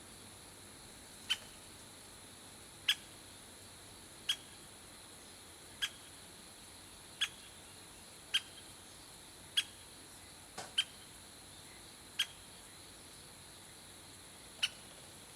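A bird repeating a short, sharp call note about every second and a half, around ten times, over a steady faint hiss with a thin high whine.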